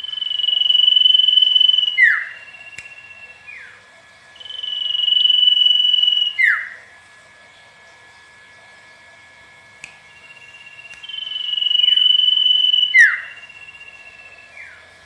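Common iora (cipoh) singing: three long drawn-out whistles of about two seconds each. Each whistle ends in a short lower note and a quick downward-slurred note. A faint steady thin high tone runs underneath.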